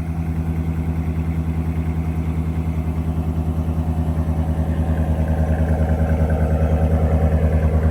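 Ram 1500's 5.7-litre Hemi V8 idling with an even, steady pulse while it warms up after a cold start, getting a little louder in the last few seconds.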